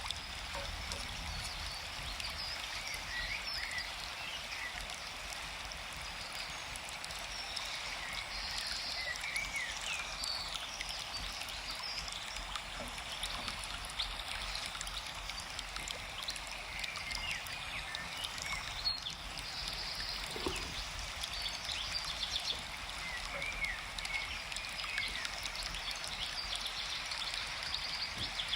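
Forest ambience: a steady rush of running stream water, with small birds chirping briefly now and then.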